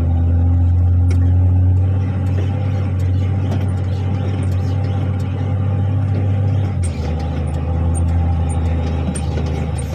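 Articulated dump truck's diesel engine running steadily, its note dropping and easing about seven seconds in, with light rattles.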